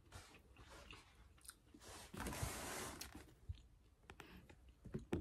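Faint chewing of a mouthful of curry, with scattered small clicks. A brief soft noise about two seconds in lasts under a second.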